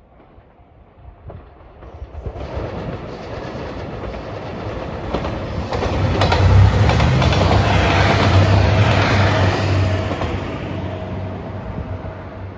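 JR Shikoku 2700 series diesel express train passing by: engine drone and wheels on the rails build up from a quiet start, are loudest from about six to ten seconds in, then fade as the train moves away.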